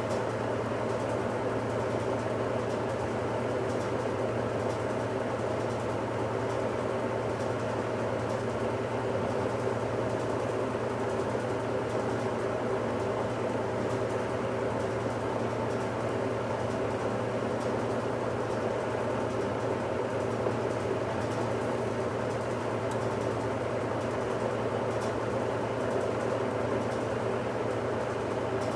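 1969 Westinghouse washing machine running steadily mid-cycle: a continuous motor hum with machine noise over it, not changing in level.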